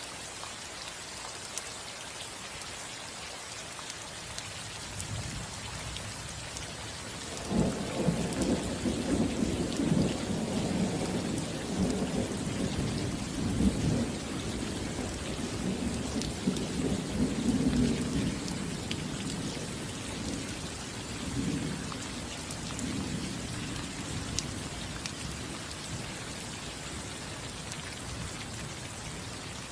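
Steady rain falling on a roof, with a roll of thunder. The thunder starts to build about a quarter of the way in, breaks loudly, rumbles on for around ten seconds and then dies away under the rain.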